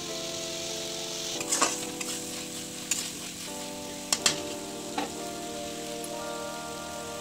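Tomato-onion masala sizzling as it fries in a kadai, with a spatula scraping and knocking against the pan several times. The loudest knocks come about one and a half and four seconds in.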